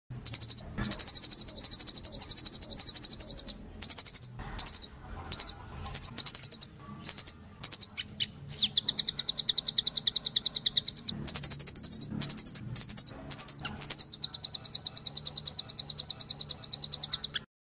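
Nuthatch (burung rambatan, sold as 'rambatan doraemon' or 'rambatan loreng') calling in long, rapid trills of high, sharp, evenly spaced notes, broken by short pauses. Around the middle one trill sits slightly lower in pitch.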